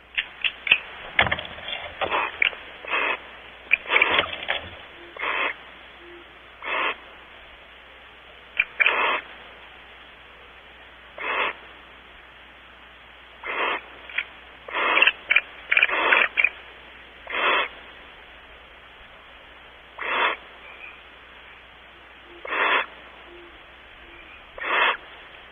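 Barn owls giving a series of short, harsh, hissing calls at irregular intervals, some in quick clusters, over a low steady background hiss.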